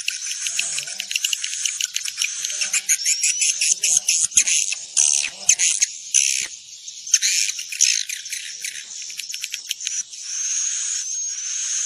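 Swiftlets calling: a dense, high-pitched chorus of rapid chirps and clicking trills with short whistled glides, the kind of swiftlet call played to lure swiftlets into a swiftlet house to roost.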